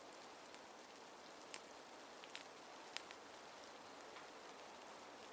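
Light rain falling, faint and steady, with a few scattered drops ticking sharply on nearby surfaces.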